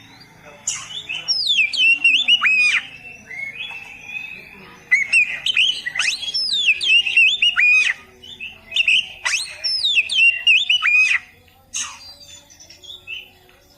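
Oriental magpie-robin (kacer) singing: three bursts of rapid, varied whistled notes sweeping quickly up and down, separated by short pauses.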